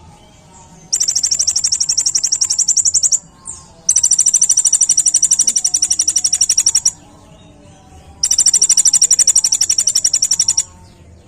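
Sunbird ('kolibri ninja') singing three long, high, rapid trills of about nine notes a second, each lasting two to three seconds with short pauses between: the fast 'tembakan' bursts prized in songbird training recordings.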